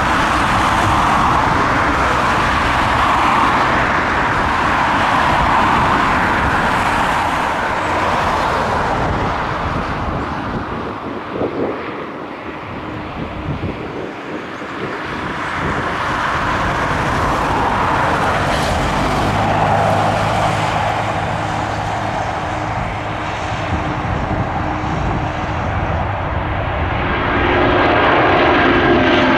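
Boeing 757 jet engines running: a loud, steady rush of jet noise that eases off midway and builds again toward the end.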